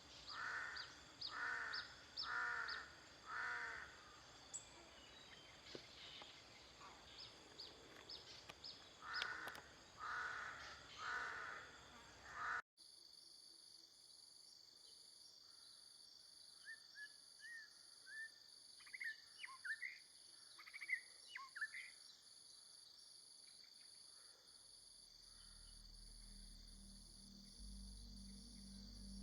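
Wild bird calling in two runs of four loud, evenly spaced calls. Then, after an abrupt cut, faint short chirps of small birds over a steady, pulsing high insect trill, with a low music drone coming in near the end.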